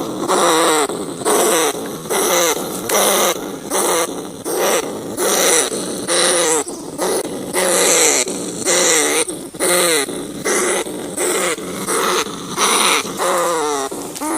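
Rats calling: harsh squealing cries repeated about one and a half times a second, each with a hissing rasp and a whine that slides down in pitch.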